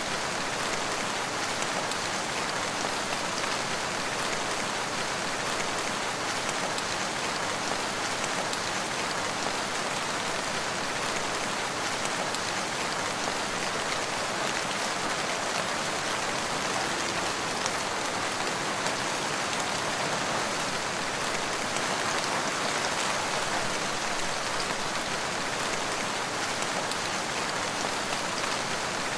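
Steady rain falling: an even hiss of many drops with fine, close-packed ticks, at a constant level.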